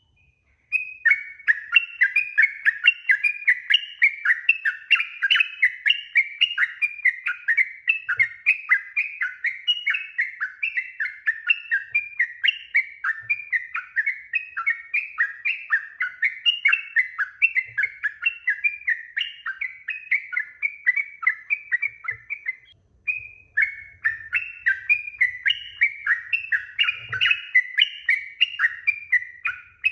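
Yellow-vented bulbul singing a long, fast run of chattering, bubbly notes, broken once by a brief pause a little after two-thirds through.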